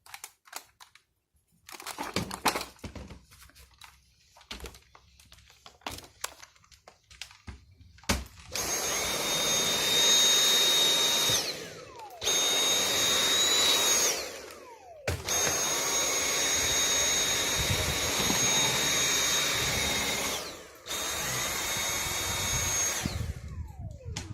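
Dyson vacuum cleaner running in four spells, each with a steady high whine and a falling pitch as the motor spins down when it is switched off. Before it starts there are scattered knocks and clicks.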